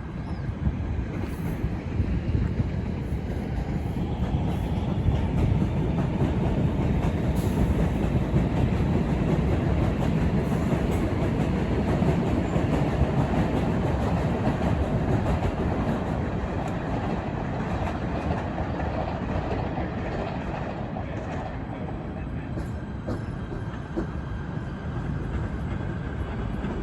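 A train passing on the tracks, its wheels clattering over the rail joints. The rumble builds over the first few seconds and eases off in the second half.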